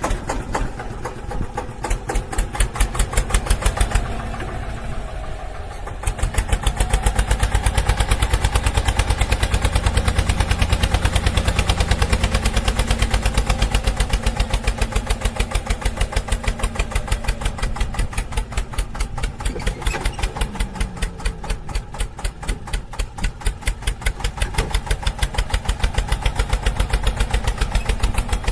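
Engine running with a steady, rapid putt-putt beat, dropping away briefly about four seconds in before starting again.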